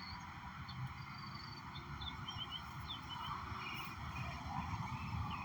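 Small birds chirping in short high notes over a steady outdoor background hum.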